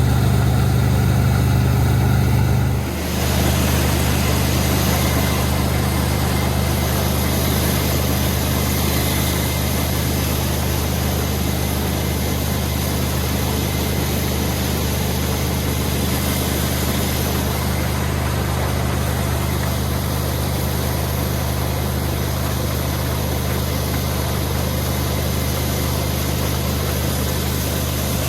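Combine harvester engine running steadily with a low, even hum and mechanical noise over it, with a brief dip in level about three seconds in.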